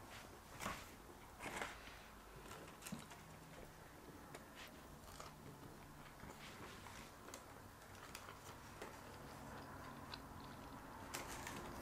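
Faint chewing of a turkey and bacon sandwich, with scattered soft mouth clicks, the loudest in the first two seconds.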